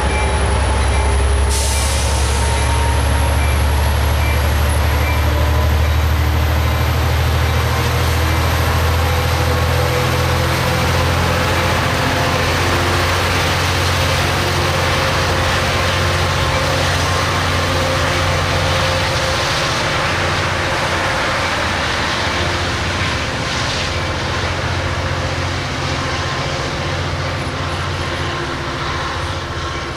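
A Metrolink commuter train's diesel engine drones steadily as the train pulls out, the drone slowly rising in pitch and easing a little as it moves away. A short hiss of air comes about a second and a half in.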